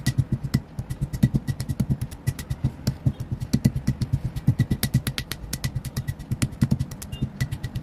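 Green school chalk being crushed: rapid, repeated crunching knocks, several a second, each a sharp crack over a dull thud.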